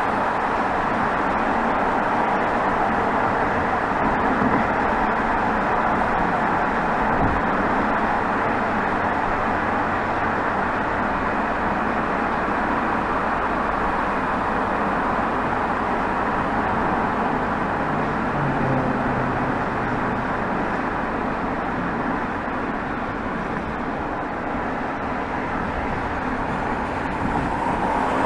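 2020 BMW 320xd's 2.0-litre four-cylinder turbodiesel exhaust, heard at the tailpipe while driving at city speeds, mixed with steady tyre and road noise. It runs evenly, easing a little in level about three-quarters of the way through.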